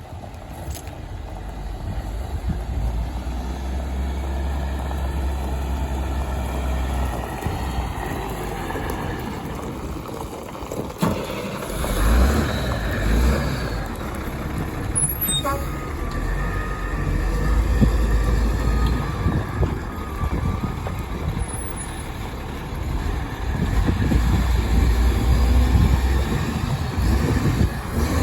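2001 International 4700 truck's engine running with a steady low rumble, swelling and easing at times, with a short noisy surge about twelve seconds in.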